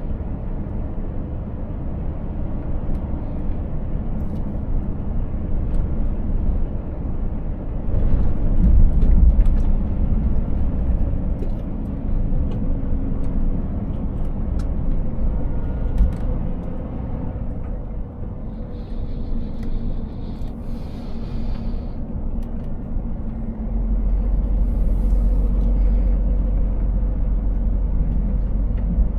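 Scania S 500 truck's engine and road noise while driving, a steady low rumble that swells about eight seconds in and again near the end.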